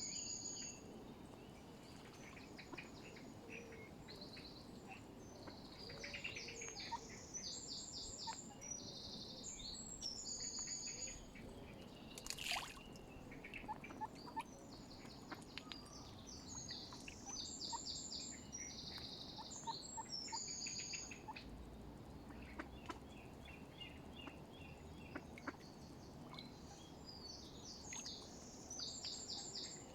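Birds calling outdoors: repeated quick runs of high, bright notes, with fainter short calls lower down, over a steady low background hum. One brief louder sound about twelve seconds in.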